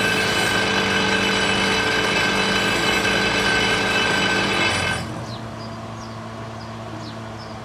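A power tool runs steadily with a high whine and hiss, then stops abruptly about five seconds in, leaving a quieter low steady hum.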